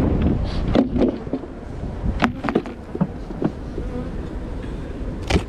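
Honey bees buzzing around an opened hive, over sharp knocks and clicks of wooden hive equipment being handled; the loudest knocks come about two seconds in and near the end.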